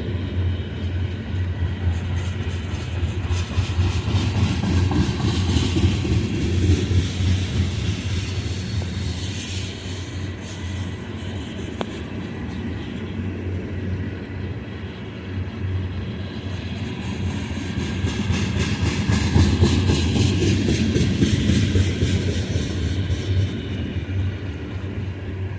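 A long freight train of loaded oil tank cars rolling past: a steady low rumble with rapid runs of wheel clicks over the rail joints, louder around the fifth second and again from about eighteen to twenty-three seconds in.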